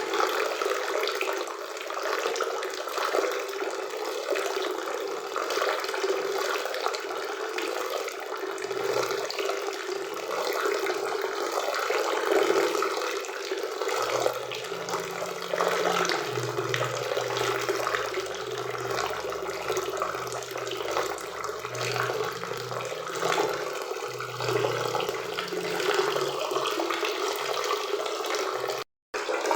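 Forest waterfall and river water rushing in a steady, even wash. It cuts out for a split second near the end.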